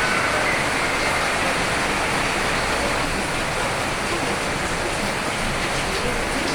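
Steady rainfall, an even wash of noise with no single drops standing out.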